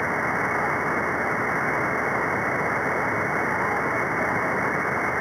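Radio receiver static: a steady hiss of band noise on the CB free band, cut off above about 2 kHz by the receiver's audio filter, with no readable signal coming through.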